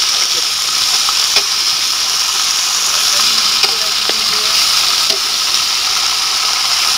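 Raw green mango strips sizzling steadily in hot oil in a metal pot as they are stirred, with a few light clicks of the ladle against the pot.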